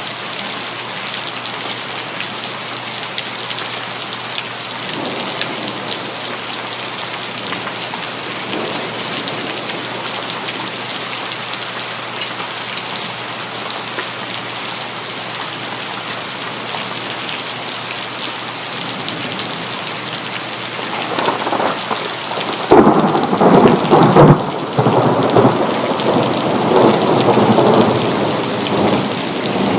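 Steady rain hissing, then thunder late on: a low rumble builds, breaks into a sharp loud crack, the loudest moment, and goes on rumbling unevenly through the rain.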